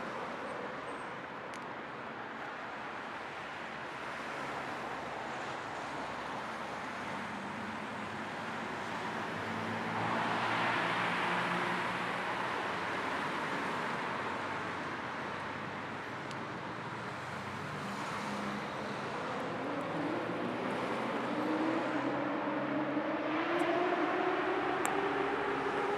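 Car on the road: a steady hiss of tyre and wind noise over a low engine hum, blended with white noise. The engine note rises in pitch near the end as the car speeds up.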